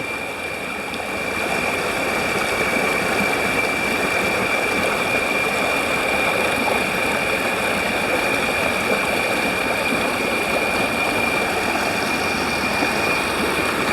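Fast-flowing floodwater rushing steadily through a channel, with a thin, steady high-pitched tone held above it.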